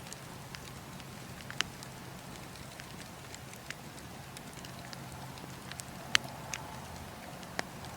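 Campfire burning: wood crackling and popping at irregular moments over a steady low hiss, with sharper pops about one and a half seconds in and twice near the end.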